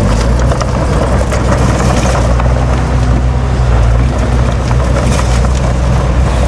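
Heavy diesel earthmoving machinery running steadily under load, a deep engine drone with metallic clanking and rattling over it, busiest about half a second to two seconds in and again around five seconds in.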